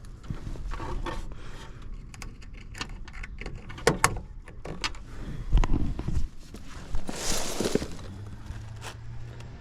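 Handling noises: scattered clicks, knocks and rattles, with a few low thuds about halfway through and a short hiss about seven seconds in. A low steady hum sets in near the end.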